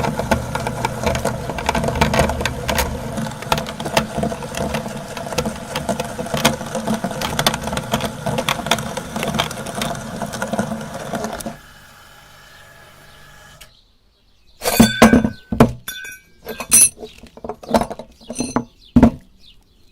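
Electric meat grinder running with a steady hum and dense crackling as it chews through a rubber chicken, cutting off about eleven seconds in. After a brief pause come several loud, sharp clattering knocks.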